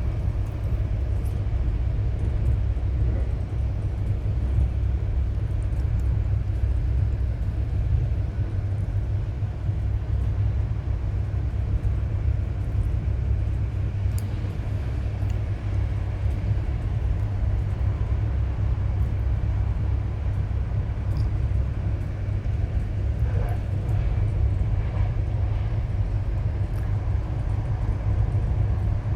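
Passenger train running along the track: a steady low rumble heard from inside the carriage.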